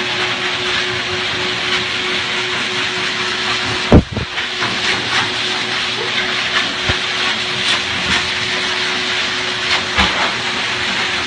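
Pet grooming dryer blowing a steady hiss of air with a faint hum, with a sharp knock about four seconds in and a lighter one near the end.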